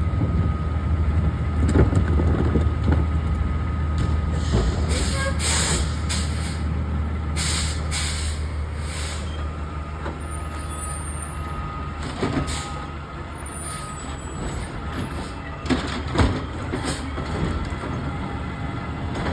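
Garbage truck's diesel engine running with a steady low hum. Its air brakes hiss several times in the first half, and a few sharp clanks come in the second half.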